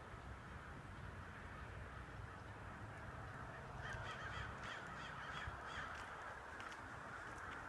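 Crows cawing, many calling at once in a continuous clamour that grows louder about four seconds in.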